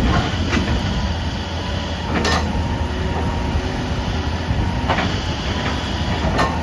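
Heavy machinery engine running steadily with a low rumble, broken by several sharp knocks or clanks a second or two apart.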